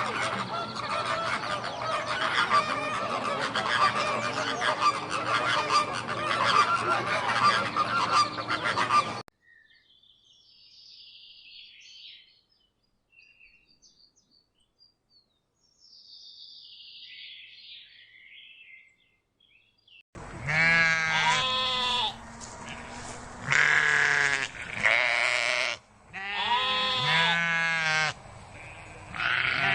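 A flock of geese honking, many overlapping calls, which cuts off suddenly about nine seconds in. After that come faint high chirps, and from about twenty seconds in several long, wavering animal calls one after another.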